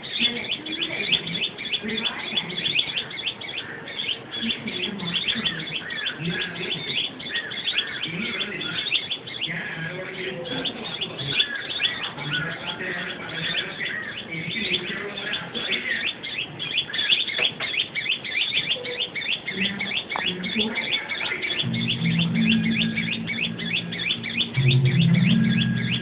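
Small birds chirping continuously, a fast run of short high chirps several a second. A low steady hum joins in about three quarters of the way through and grows louder near the end.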